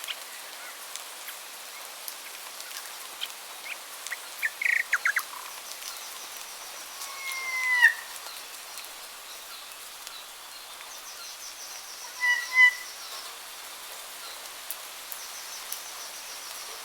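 Wild birds calling over a steady background hiss: a few short whistled notes about four seconds in, a longer falling whistle near eight seconds, a quick double note about twelve seconds in, and thin high trills scattered throughout.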